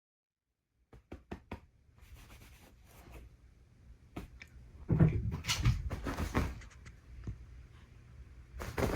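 Rustling and soft thumps of a kitten scrabbling and pouncing on a duvet that rustles, with a few sharp clicks after about a second of silence.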